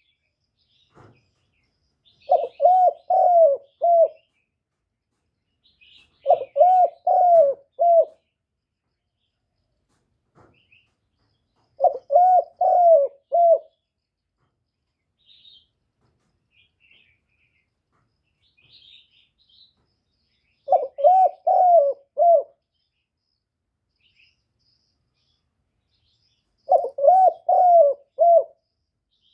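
Spotted dove cooing: five phrases of about five coos each, spaced several seconds apart. Faint high chirps of small birds come in between.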